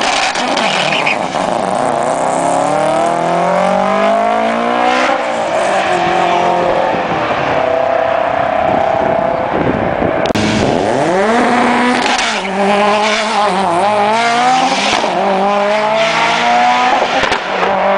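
High-performance car engines accelerating hard down a drag strip, the pitch climbing and falling back at each gear change several times over, with a fresh hard launch about ten seconds in.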